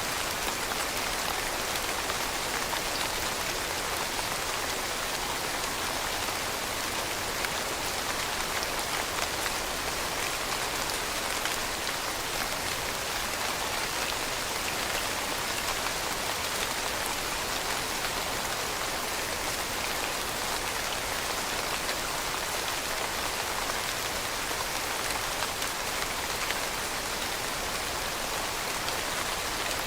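Steady rain falling on a surface, a dense even patter of raindrops without pauses or changes.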